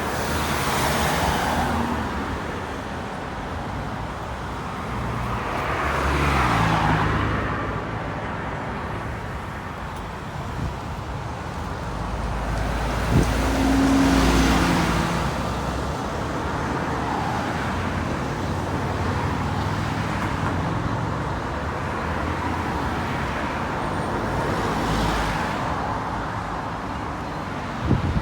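Road traffic with motor vehicles passing one after another, about four passes swelling and fading over a steady engine rumble and tyre noise, with a brief knock about halfway through.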